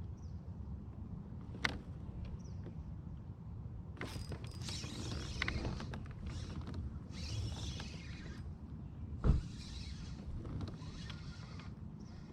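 Kayak paddle strokes swishing through the water in short bursts every second or two. There is a sharp click near the start and a single loud thump about nine seconds in.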